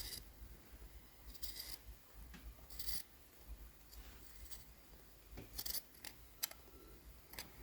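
Scissors cutting a heart shape out of a folded square: several separate snips, spaced unevenly.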